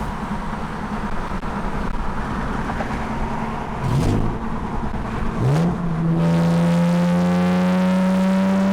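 BMW E30's swapped S52 straight-six running through a custom exhaust: two quick revs rising in pitch about four and five and a half seconds in, then a held high-rpm pull whose pitch climbs slowly as the car accelerates.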